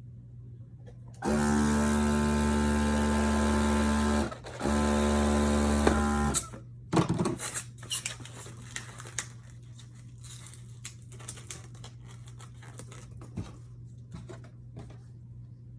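Electric balloon pump running in two bursts, about three seconds and then about two seconds with a short break between, inflating a latex balloon. Afterwards there are scattered clicks and rubbing from the balloon being handled.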